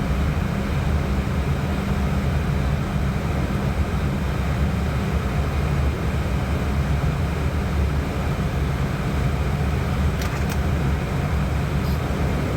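Steady low drone of airflow and engines inside an airliner's cockpit in flight. It stays even throughout, with a couple of faint ticks near the end.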